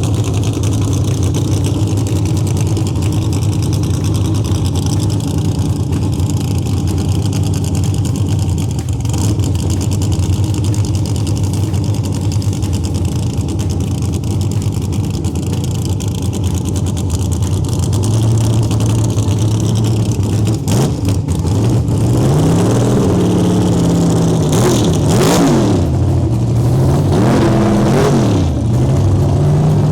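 A car engine idling steadily, then revved several times in the second half, each rev rising and falling quickly.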